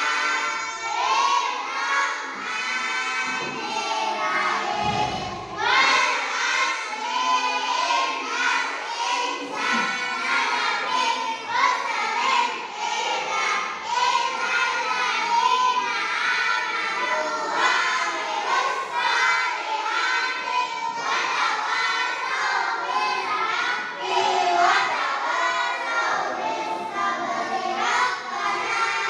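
A class of young children singing together in unison, with a single low thump about five seconds in.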